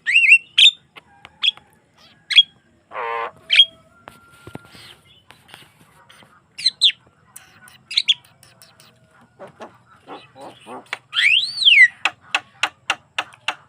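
Javan myna in full song: a varied, chattering string of sharp whistled notes and clicks, with a harsh buzzy note about three seconds in, a rising-then-falling whistle near the end and a quick run of clicking notes after it.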